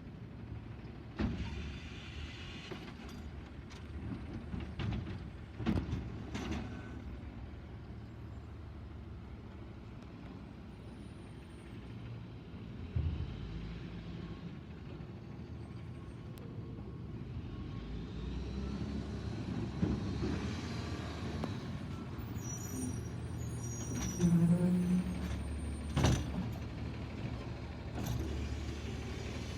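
Autocar Xpeditor garbage truck with a Bridgeport Ranger automated side-loader body running, its engine rumbling steadily. Air-brake hisses come twice, with scattered metallic knocks and clanks, the loudest near the end.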